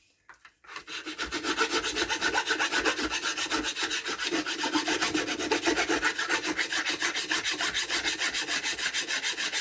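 Metal file rasping back and forth on a Stihl MS170 chainsaw bar to take the burrs off the rails, in fast, even strokes of about eight a second that start about a second in.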